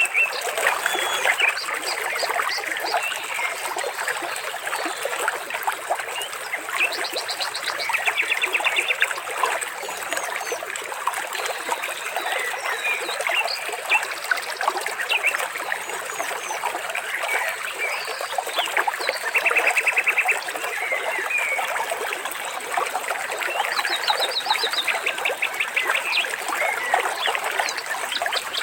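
Water trickling and splashing under a dense chorus of birdsong, with short rapid trills recurring every few seconds.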